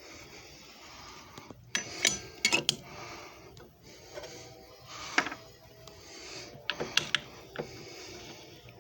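Sharp clicks and knocks, about eight in all, scattered over a steady hiss, from a JFJ Easy Pro disc repair machine being handled.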